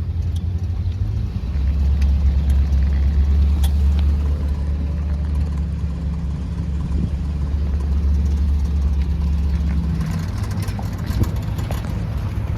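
A car engine running with a steady low drone. Its pitch drops and grows stronger about a second and a half in, and shifts again near the end.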